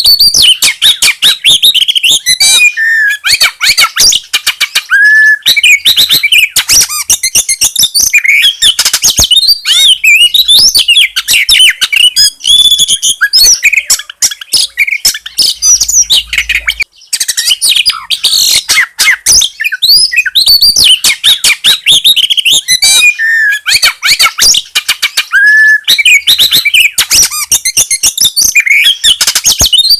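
Loud, continuous songbird song of rapid chattering notes mixed with short whistled phrases. It comes from a recording of ciblek gunung (a prinia) joined with Oriental magpie-robin song, used to lure wild birds.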